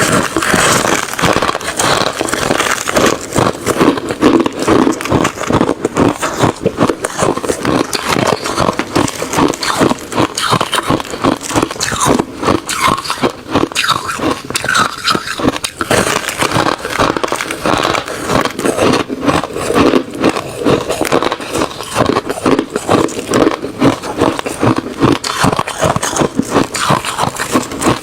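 Refrozen crushed ice mixed with shaved ice being bitten and chewed close to the microphone: a loud, unbroken run of crunching and crackling.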